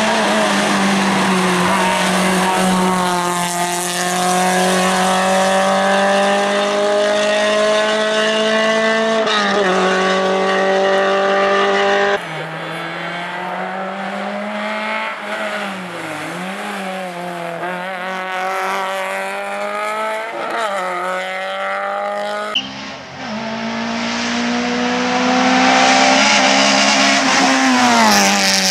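Skoda Favorit rally car's four-cylinder engine running hard at high revs. The pitch holds, drops at gear changes and lifts, then climbs again. The sound changes abruptly twice where the recording cuts between shots.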